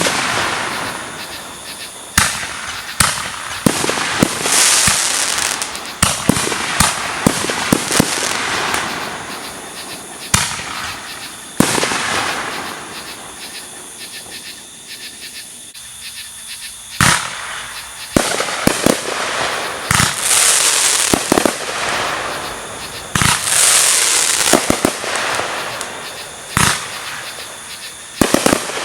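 Fireworks display: many sharp bangs from bursting fireworks, some in quick clusters, with a crackling hiss after several of them. There is a short lull around the middle.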